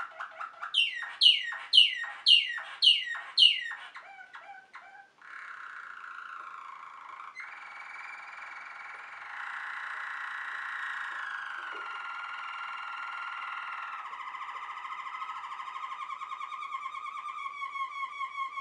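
Waterslager (Malinois) canary singing: a run of about six quick falling notes, then a long low rolling trill that shifts pitch a few times and rises again near the end.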